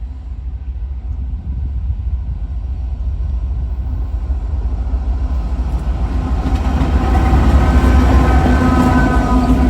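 Freight train led by six diesel locomotives approaching: a low rumble that grows steadily louder, with a few steady engine tones joining about two-thirds of the way through.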